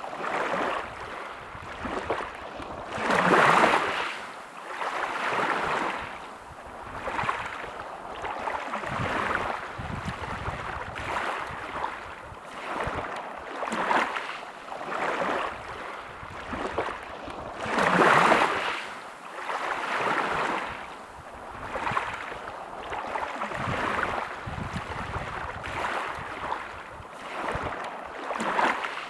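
Small sea waves washing on a shore, a rush of water that swells and fades every second or two, with two bigger surges about three seconds in and around eighteen seconds in.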